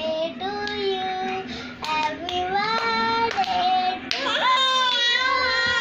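A child singing in a high voice, holding long notes, with a few hand claps.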